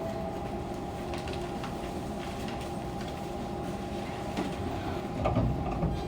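Inside a Fukuoka City Subway 2000 series car standing at a station: steady hum of the onboard equipment with scattered light clicks, and a low rumble rising about five seconds in.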